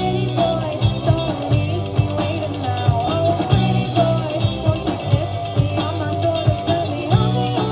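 Live band playing a rock song: a sung melody over guitar, bass and drums with a steady beat.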